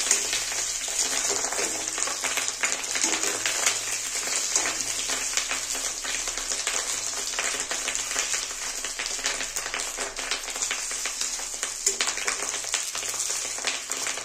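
Pieces of salt-and-turmeric-coated fish roe shallow-frying in hot oil: a steady sizzle with dense, fine crackling.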